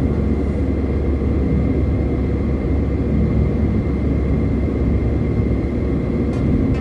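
Steady low rumble of a car driving on the highway: road and engine noise.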